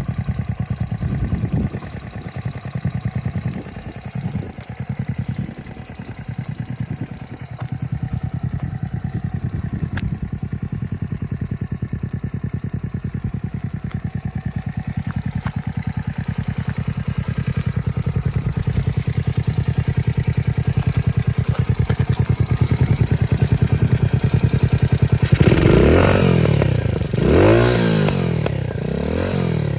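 Small four-stroke single-cylinder engine of a Honda Monkey Z50A, a swapped-in 12V four-speed manual engine, idling. It runs unevenly for the first several seconds, then settles into a steady idle. Near the end it is revved up and let back down three times.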